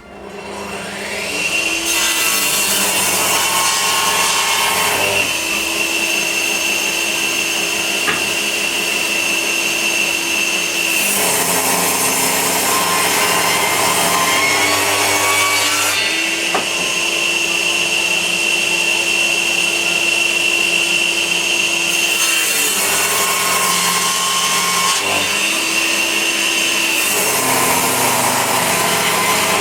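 Power saw resawing pieces of 2x4 lumber. The motor spins up in the first second or two, then runs steadily and loudly, its sound shifting every few seconds as the cuts go on.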